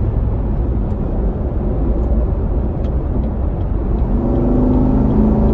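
Cabin sound of a C7 Corvette Stingray's LT1 6.2-litre V8, fitted with a dry performance air filter, running at highway speed with a steady low rumble of engine and road. About four seconds in, the engine note comes up louder and clearer.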